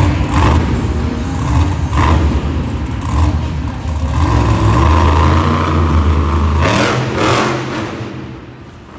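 Monster truck engine running hard with revving, a heavy low rumble and a few sharp cracks. It fades off over the last couple of seconds.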